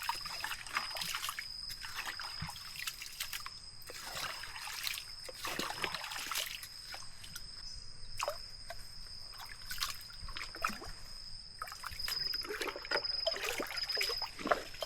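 Water trickling and splashing in irregular small splashes, with a steady high-pitched tone throughout.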